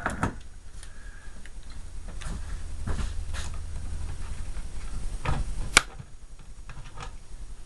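Scattered light clicks and knocks of fridge parts being handled during disassembly, with one sharp click about six seconds in, over a low hum that stops about five seconds in.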